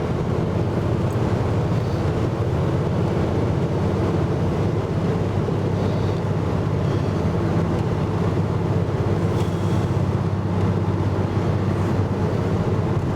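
Steady low rumble of a vehicle's engine and road noise, with wind buffeting the microphone.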